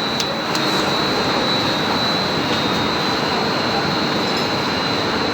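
Air conditioner running: a steady rushing noise with a thin, high, steady whine over it, and a couple of faint clicks in the first second.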